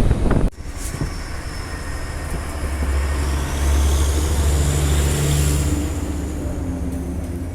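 Train's old diesel engine running with a steady low drone that swells in the middle and eases off near the end. Wind on the microphone for the first half second before it cuts off suddenly.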